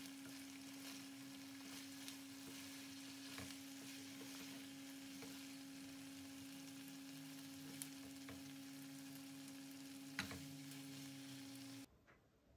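Mixed vegetables faintly sizzling in a non-stick wok while being stirred with a wooden spatula, with a few sharp clicks and a steady low hum underneath. The sizzle stops suddenly near the end.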